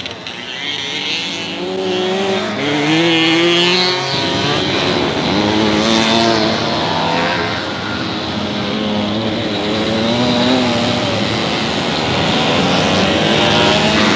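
Several small vintage two-stroke motorcycle engines running hard together, their pitches climbing and dropping as the riders rev through the gears and back off.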